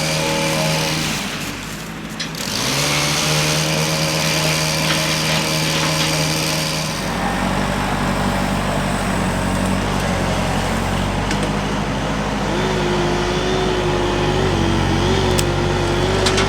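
Engines running steadily: one engine note that drops briefly about two seconds in and then recovers, then a change about seven seconds in to a lower, rumbling engine with a wavering whine.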